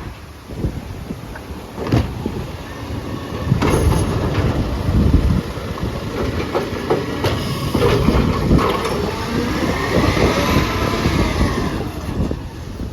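Side-loader garbage truck emptying a recycling bin: irregular clattering and knocking as the recyclables tip into the hopper, with a brief metallic squeal late on.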